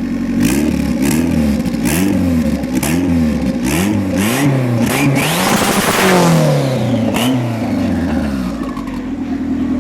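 Turbocharged Honda drag car's engine revving repeatedly against its two-step launch limiter, with sharp bangs like a shotgun from the exhaust. About six seconds in it revs up to a peak and the pitch then falls away.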